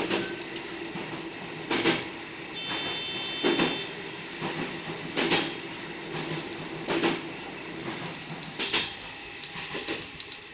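Electric commuter train running, its wheels clacking over rail joints at a steady pace about every two seconds, heard from inside the car. A brief high whine sounds about three seconds in.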